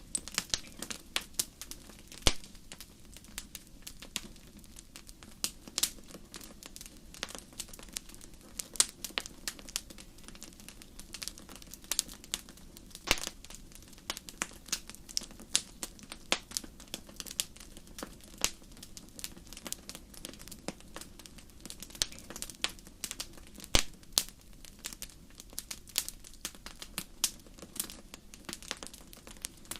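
Wood fire burning in a fireplace: frequent irregular sharp crackles and pops over a low steady rumble of the flames, with a few louder pops.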